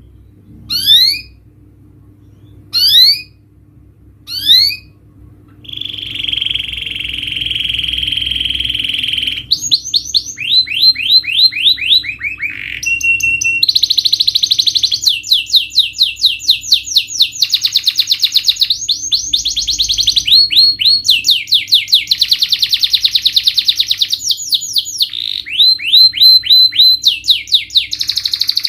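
Domestic canary singing: three separate rising whistled notes, then a steady buzzing trill about six seconds in, followed by long, fast runs of repeated notes that jump from one pitch to another.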